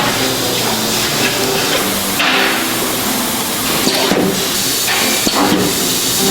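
Metalworking noise: a steady hiss with several hammer-like knocks on metal, over faint background music.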